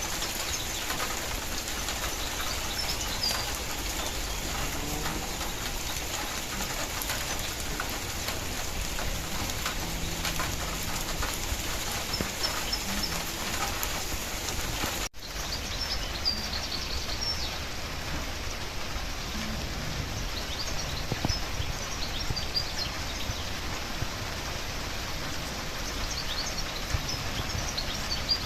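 Steady rain falling, an even patter, with a few short high bird chirps scattered through it. About halfway there is a brief break in the sound.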